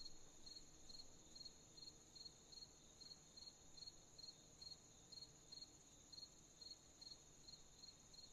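Crickets chirping at night, faint: evenly spaced chirps about three times a second over a steady, higher insect trill.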